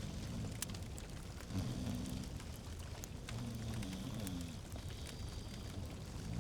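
Log fire crackling in a fireplace, with irregular sharp pops over a steady soft hiss.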